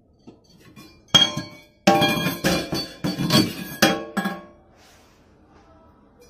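A series of clinking, ringing knocks: one about a second in, then a quick run of several over the next two seconds, then it dies away.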